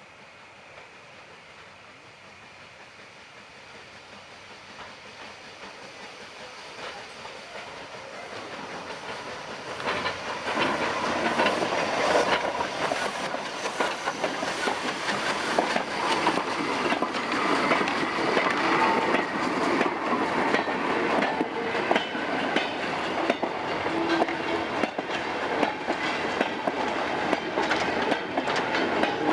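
A train approaches, growing steadily louder over the first ten seconds, then runs close by with its wheels clicking over the rail joints.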